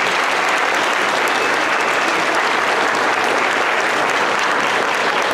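Audience applauding steadily in a large room after a song.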